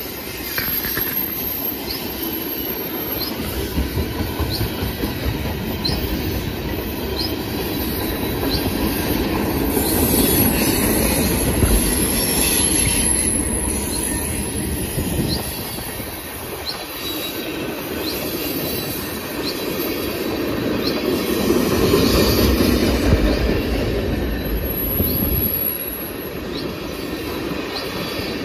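Freight train tank cars rolling steadily past at close range: a continuous rumble of steel wheels on rail that swells and fades as cars go by, with light regular ticks about once a second and a thin high wheel squeal at times.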